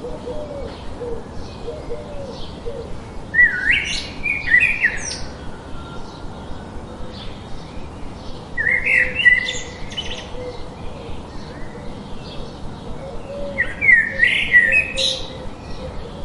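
A songbird singing the same short, rapid phrase three times, about five seconds apart, over a steady background hiss.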